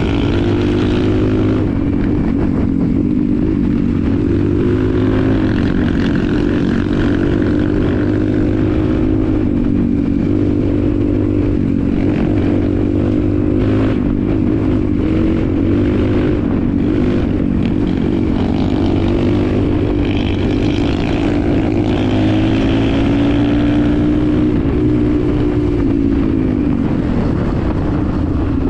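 Vehicle engine running continuously while under way, its pitch wavering up and down.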